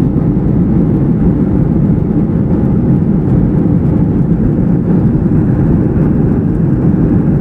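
Airliner cabin noise: the steady rumble of the jet engines and airflow, heard from inside the passenger cabin, strongest in the low range and unchanging.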